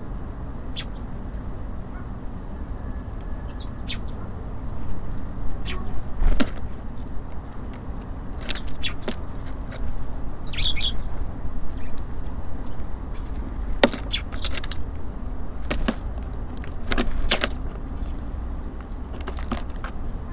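Small birds at a feeder: scattered sharp taps and clicks of pecking and landing, with a few short high chirps, the clearest about halfway through. Underneath runs a steady low rumble of city traffic.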